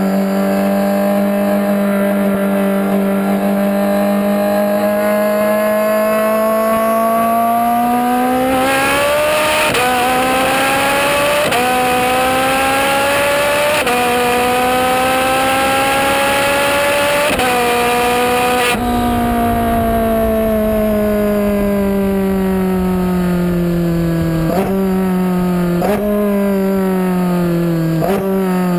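Twin-turbocharged Ferrari 458 Spider's V8 pulling hard under full throttle, its pitch climbing and dropping back through three quick upshifts. About two-thirds through it lifts off and the revs fall, with three short throttle blips on downshifts near the end.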